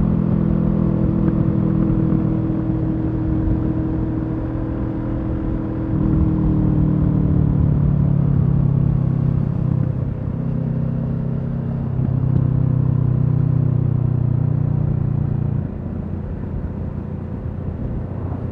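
Kawasaki Z650's 649 cc parallel-twin engine running through a LeoVince EVO carbon slip-on exhaust while riding. Its note steps up and down with the throttle a few times, then drops quieter and lower about three seconds before the end as the throttle is eased off.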